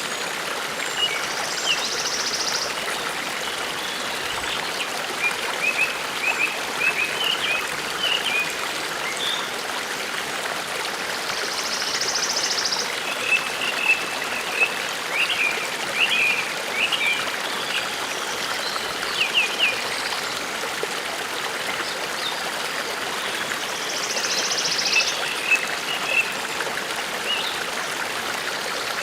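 A forest stream babbling steadily, with birds chirping over it in short, quick phrases and a high buzzy trill that comes three times, roughly every twelve seconds.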